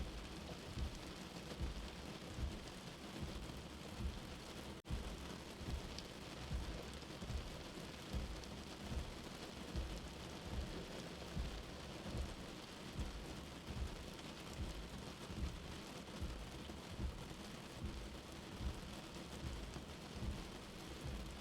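Steady rain heard from indoors, with a slow, even heartbeat thumping low underneath at a little more than one beat a second. The sound drops out for a split second about five seconds in.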